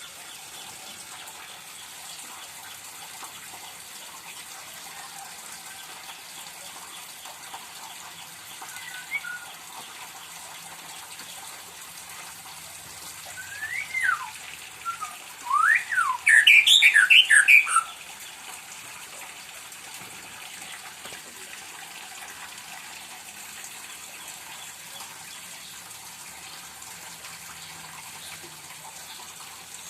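Pet white-rumped shama singing: a couple of soft chirps, then about halfway through a short, loud burst of quick rising and falling whistled notes lasting a few seconds, over a steady hiss.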